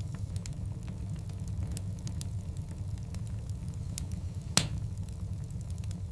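Wood fire of large burning logs crackling: scattered small snaps over a steady low rumble, with one loud pop about four and a half seconds in.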